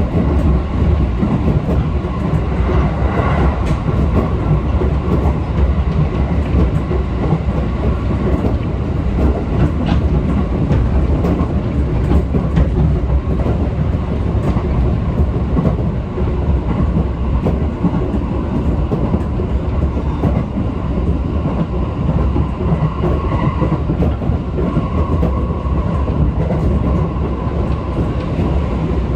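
Japanese passenger train running on its rails: a loud, steady rumble that holds evenly throughout, with faint steady tones above it.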